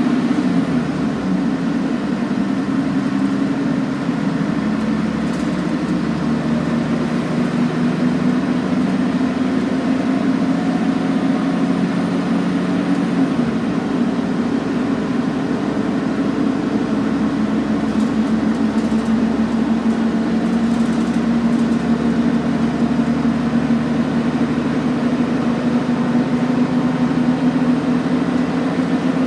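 Scania N113CRB bus's diesel engine running steadily, a continuous drone that shifts slightly in pitch about halfway through.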